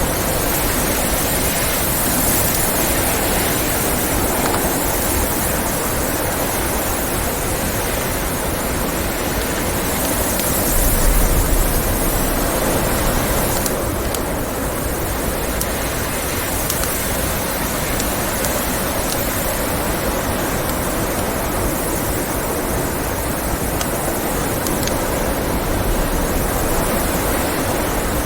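Blizzard wind blowing steadily, with the scattered small pops of a crackling wood fire over it; the wind swells louder for a second or two about eleven seconds in.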